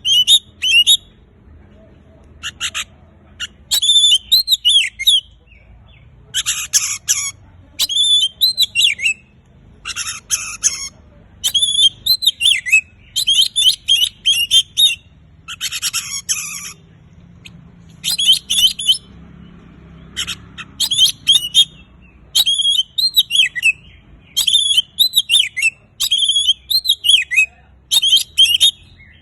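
Oriental magpie-robin in full song: loud, varied phrases of sweet whistles and harsh buzzy notes, delivered in short bursts with brief pauses between them.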